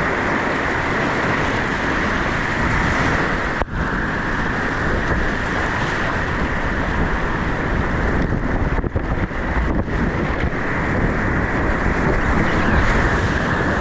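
Whitewater rushing steadily around a kayak in a river rapid, with a brief sudden break in the noise a few seconds in.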